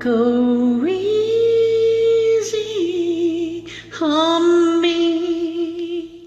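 A woman singing the final phrase of a slow ballad in long held notes with vibrato, with a short breath just before the last note, over a sustained piano chord. It fades out near the end.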